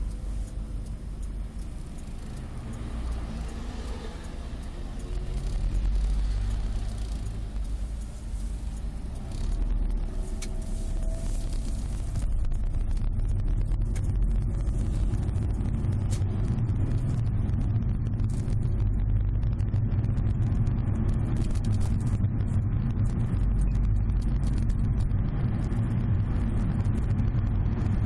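Subaru Legacy BH5 wagon's rear hatch area crackling with rapid small clicks ("paki-paki") over the steady road rumble inside the cabin while driving. The clicks come thick from about twelve seconds in. It is an unexplained rattle whose cause is still unknown, with the hatch and cargo-room trim panels already removed.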